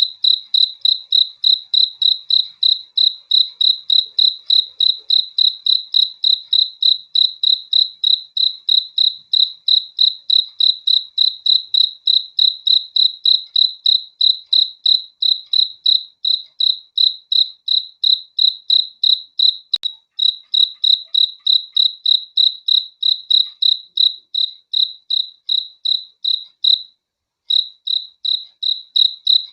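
A cricket chirping in a steady, even rhythm of short high-pitched chirps, about two and a half a second. The chirping breaks off for about a second near the end, then resumes.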